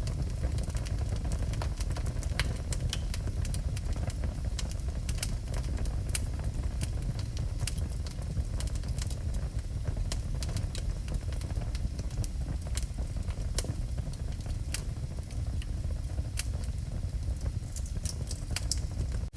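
Wood fire burning in a fireplace: a steady low rumble of the flames with frequent sharp crackles and pops of the burning wood.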